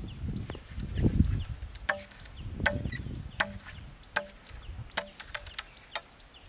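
Low thuds in the first second or so, then a dozen irregular sharp knocks, with faint bird chirps.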